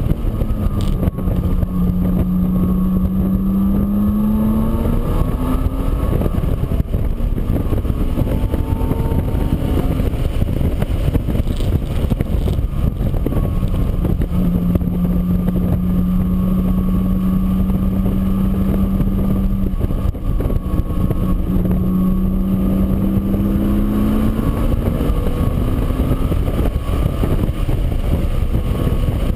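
An engine running steadily under heavy rushing noise. Its pitch rises briefly twice, about four seconds in and again near 23 seconds.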